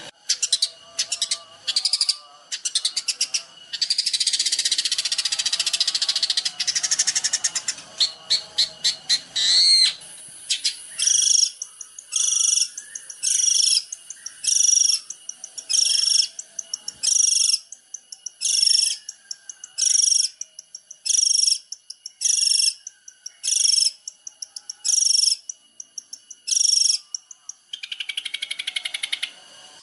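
Songbird singing: a fast, chattering run of rattling notes for about ten seconds, then one short high phrase repeated about a dozen times, roughly once a second, closing with a trill.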